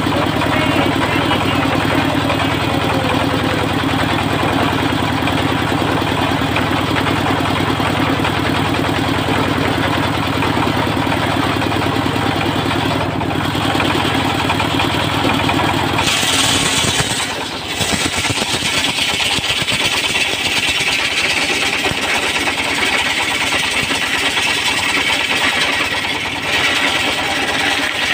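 An engine on a wood-sawing rig runs steadily with a low hum. About 16 seconds in, the sound changes: the low hum drops away and a higher, hissy whine takes over.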